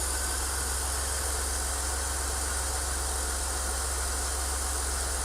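Peugeot 406's 3.0 V6 petrol engine (ES9J4S) idling steadily with an even low hum.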